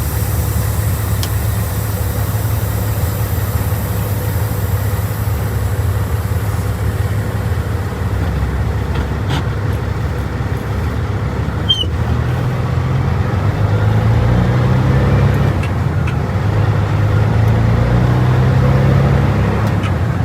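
Caterpillar C15 diesel engine of a Peterbilt 379 semi truck running as the truck moves off slowly, its note rising twice in the second half as it pulls.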